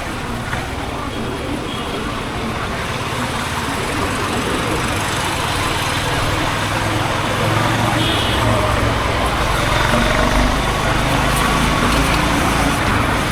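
Honda H'Ness CB350's single-cylinder engine and exhaust running while riding, mixed with road and traffic noise; the sound grows gradually louder from about four seconds in.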